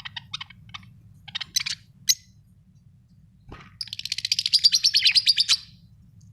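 Budgerigars chirping: scattered short high chirps in the first two seconds, then a fast chattering warble of many quick notes lasting nearly two seconds, starting about four seconds in.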